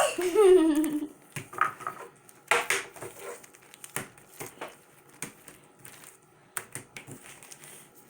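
A child's short vocal sound in the first second, then scattered small clicks, taps and crackles of small objects being handled.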